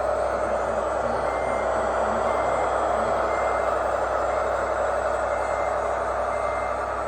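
Radio-controlled truck's reversing beeper sounding about once a second over the model's steady running noise, as the truck backs up.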